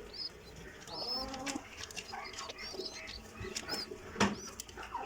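Birds calling at a pigeon nest: many short high chirps, and a lower call like a pigeon's coo about a second in. A sharp tap or knock comes about four seconds in.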